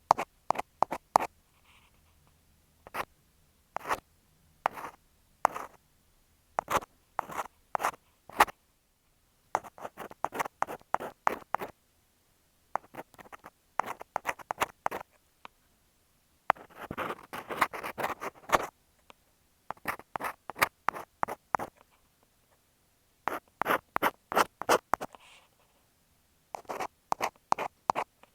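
Ear pick scraping and scratching against an earphone microphone standing in for an ear, in clusters of quick strokes separated by short pauses, with a longer, denser stretch of scratching a little past halfway.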